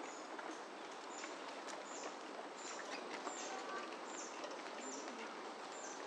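A bird repeating a short, high call that falls in pitch, a little faster than once a second, over a steady hiss of outdoor background noise.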